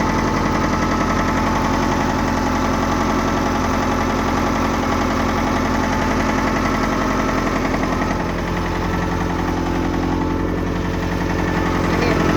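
Ford 6610 tractor's four-cylinder diesel engine running steadily, dipping slightly about eight seconds in.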